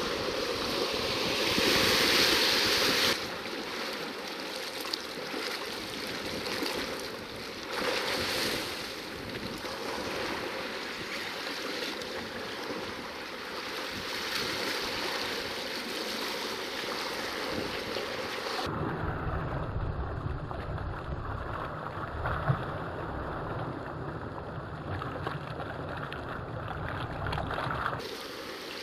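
Sea surf washing against shore rocks, with wind buffeting the microphone; the wash swells louder a couple of times. About two-thirds of the way through the sound changes suddenly to a muffled low rumble with the hiss gone.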